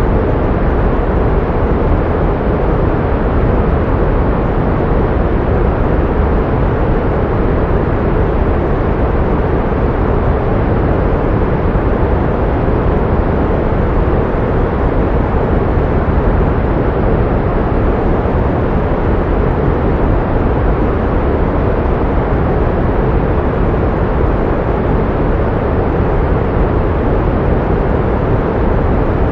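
Pink noise: a steady, unchanging hiss with its weight in the low end, fading toward the top, used as a sound-therapy masker for tinnitus.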